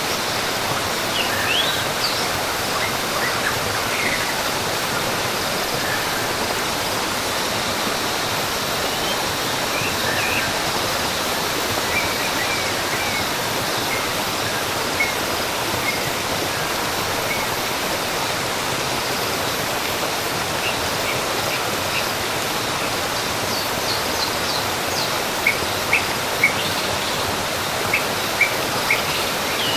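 Rainforest ambience: the steady rush of a waterfall, with scattered short bird chirps over it and a quick run of chirps near the end.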